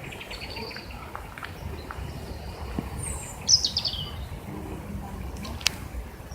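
Wild birds calling: a quick run of high chirps soon after the start, then a bright, falling series of notes about three and a half seconds in, the loudest sound. There is a single sharp click shortly before the end, over a low steady rumble.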